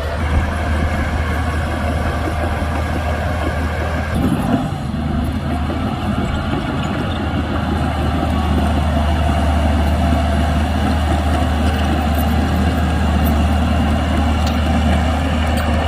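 Shantui DH17C2 bulldozer's diesel engine running steadily with a deep hum, its note shifting about four seconds in and growing slightly louder later.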